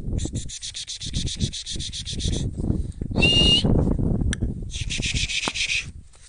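A rapid pulsing high buzz, typical of an insect, comes in two stretches, with a short louder chirp between them, over low rustling and handling noise.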